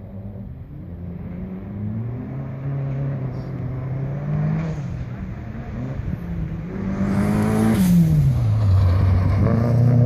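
A car's engine at full throttle on a dirt autocross track, revving up through the gears and growing louder as it approaches. It is loudest about eight seconds in, when the engine note falls sharply as the car passes close with a rush of noise, then it revs up again.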